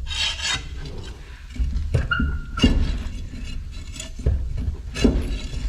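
Metal clanks and knocks as a heavy floater wheel is worked onto a truck's hub, with a brief squeak about two seconds in, over a steady low rumble.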